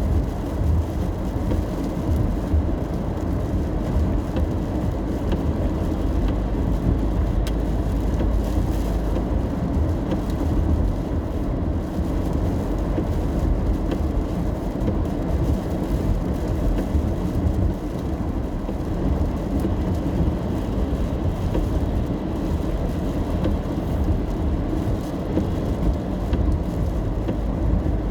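Steady low road rumble of a car driving on a wet road in the rain, heard from inside the cabin: tyre and engine noise.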